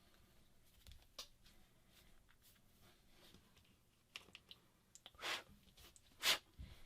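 Quiet handling of a smartphone during a screen repair: a few light clicks and taps, then two short rubbing swishes near the end, the second the louder.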